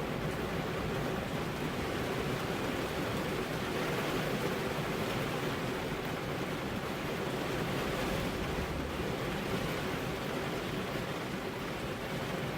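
Steady rain falling on a car's window glass, an even wash of drops with no single hits or thunder standing out.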